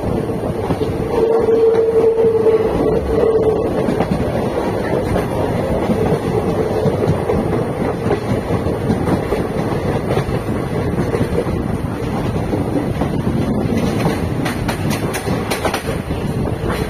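Indian Railways ICF passenger coach running at speed on broad-gauge track, heard from aboard: a steady rumble of wheels on rail with a clickety-clack over the joints. About a second in, a brief steady whine rises over it for about two seconds.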